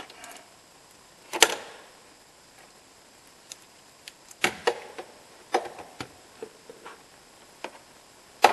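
Irregular sharp knocks and clicks, about half a dozen louder ones among smaller ticks, with a brief ring after each, like tools and metal parts being picked up and set down during engine repair work.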